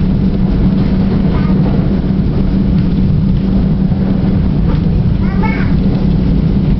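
NJ Transit diesel commuter train running at speed, heard from inside the passenger coach: a loud, steady rumble of wheels on rail with a constant low hum.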